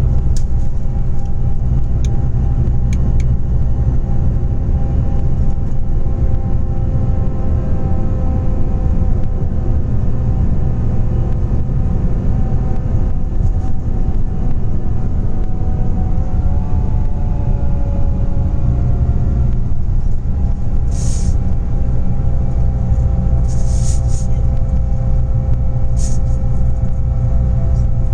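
Scania Interlink natural-gas bus running with a steady low rumble and engine drone; the engine note rises about two-thirds of the way through, then drops away. Several short hisses of air follow near the end, typical of the bus's air brakes.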